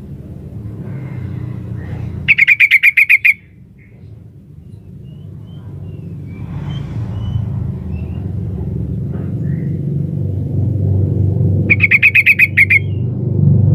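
Female yellow-vented bulbul calling for a male: two bursts of rapid, evenly repeated chattering notes, each about a second long, one a couple of seconds in and one near the end. A steady low rumble runs beneath.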